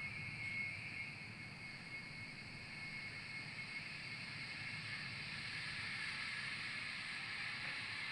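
Steady running noise of a train: a rushing hiss over a low rumble, growing slowly louder.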